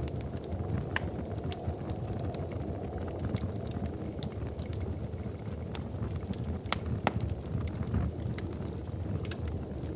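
Wood fire in a fireplace crackling: a steady low rumble of burning with irregular sharp pops and snaps, a few louder ones about a second in and around seven seconds in.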